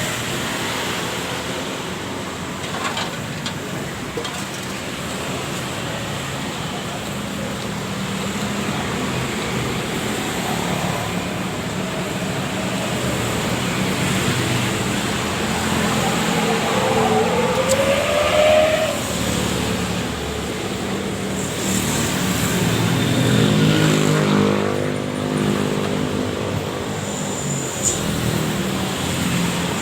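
Motor vehicle engines running and passing by, with one engine note rising in pitch a little past halfway.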